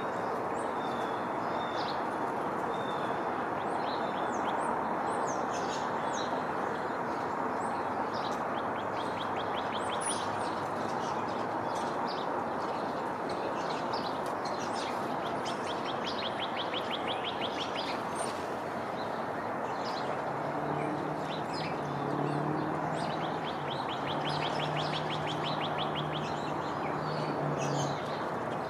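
Several small songbirds chirping, with rapid trills at about 8 s, 16 s and 23 to 27 s, over a steady background hiss of outdoor noise. A low, steady engine-like hum joins in about two-thirds of the way through.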